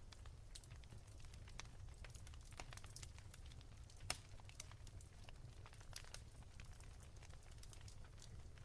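Wood fire crackling softly: irregular small pops and snaps, one sharper snap about four seconds in, over a faint low rumble.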